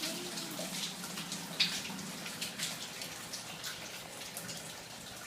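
Water raining down indoors from a plumbing leak: a steady patter of drips and splashes.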